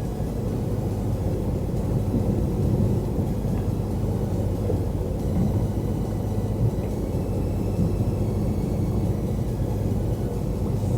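A fishing boat's diesel engine running steadily at low revs, a constant low rumble with an even hum.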